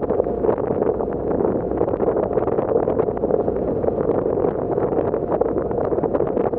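Passenger ferry under way across open water: a steady rush of wind and water, with wind buffeting the microphone.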